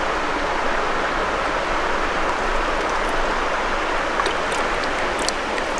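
River water rushing past, a steady even rush with no change throughout.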